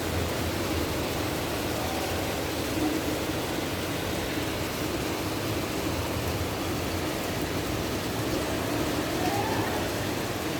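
Heavy rain pouring onto a road, a steady dense hiss, with a faint rising tone near the end.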